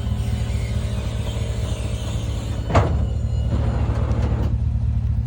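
A vehicle engine running steadily with a low rumble, with one sharp knock a little before the middle and a brief rushing noise just after it.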